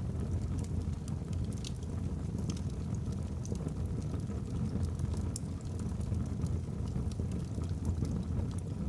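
Wood fire burning in a fireplace: a steady low rumble of flames with scattered sharp crackles from the burning logs.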